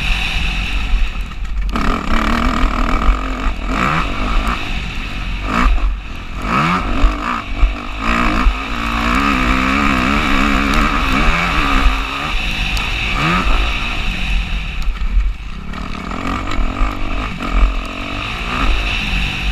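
Motocross bike engine revving hard, its pitch rising and falling again and again as the throttle is opened and closed, with short drops in between. Heavy wind rumble on the microphone runs under it.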